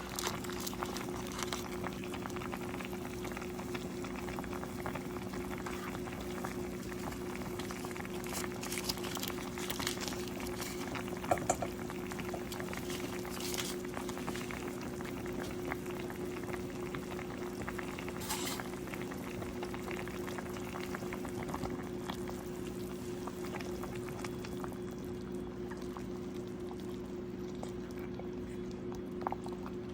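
A pot of chicken herb soup boiling, bubbling steadily, with a few small clicks and a steady low hum underneath.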